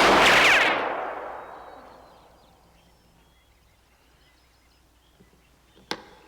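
A single sudden loud bang that rings out and fades over about two seconds, followed by quiet and one short sharp knock near the end.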